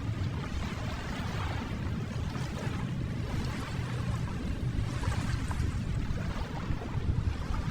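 Ocean waves: a steady wash of surf with no distinct breaks.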